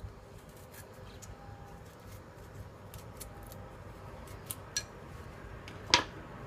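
Small scattered clicks of utensils and cookware being handled, with one sharp metallic clink that rings briefly about six seconds in.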